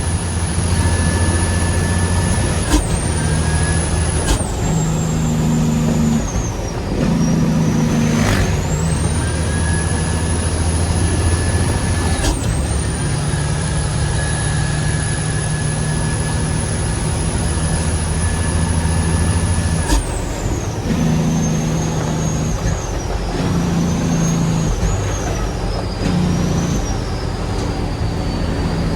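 Heavy truck's diesel engine running under way, its low hum shifting in pitch, with a high whine that climbs, holds and drops off sharply about four times.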